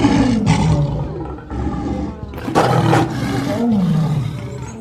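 Male lion roaring. A deep call falls in pitch at the start, then a second long roar begins about two and a half seconds in and also slides down in pitch.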